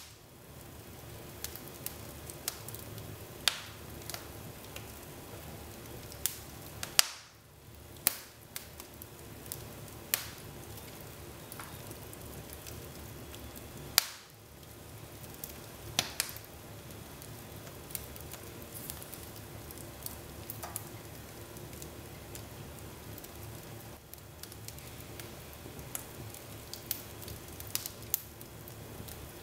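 Wood fire burning in a fireplace: a steady hiss with frequent small crackles and a few louder sharp pops, the loudest about 7 and 14 seconds in.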